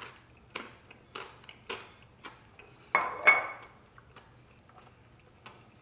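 A person chewing a mouthful of baked cauliflower wing close to the microphone, about two chews a second for the first couple of seconds. About three seconds in comes a louder, short clatter with a brief ring, like chopsticks or cutlery knocking against a dish.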